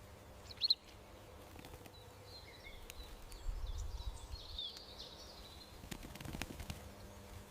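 Garden songbirds: one short, sharp chirp about half a second in, then a few seconds of soft twittering in the middle, over a faint steady outdoor background.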